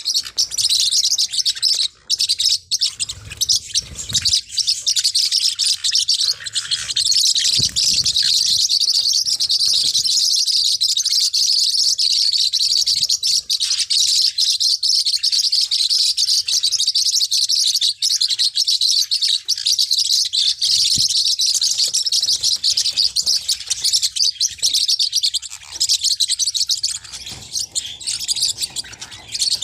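Forpus parrotlet chirping and twittering: a dense, rapid, high-pitched chatter with only brief pauses.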